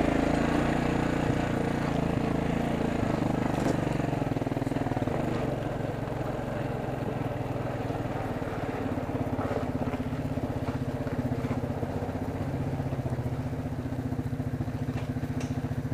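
Four-wheeler (ATV) engine running steadily at low, even revs.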